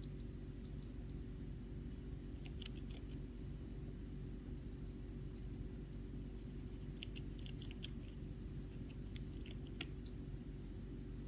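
A hamster nibbling cabbage leaf: small, crisp crunching clicks that come in short clusters, over a steady low background hum.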